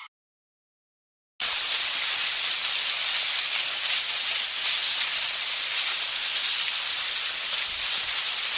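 A steady, even hiss that begins suddenly after about a second and a half of silence, presented as the sound of ants.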